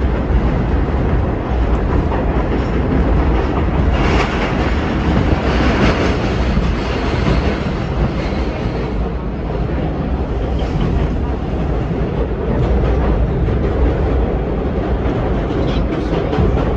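Vintage subway train in motion: a steady low rumble of wheels on rail with clatter, swelling with a louder hiss around a third of the way in.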